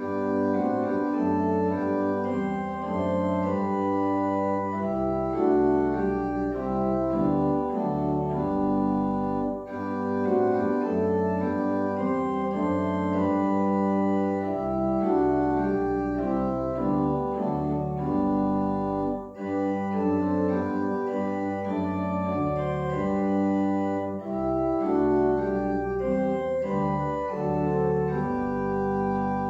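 Organ playing slow sustained chords over deep bass notes, with two brief breaks between phrases.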